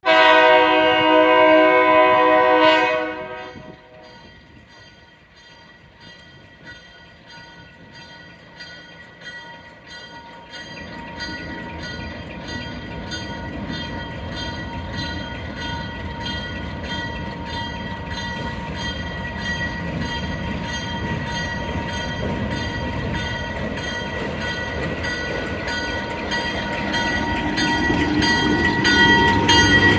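A narrow gauge train's horn sounds one chord, held for about three seconds, then cuts off. The train's rolling noise follows, growing steadily louder as it comes closer, with a steady high squeal over the rumble.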